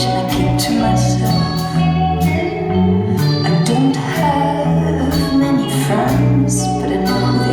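Live pop-rock band performing a song: sustained bass notes, drum hits and guitar, with a woman singing over them.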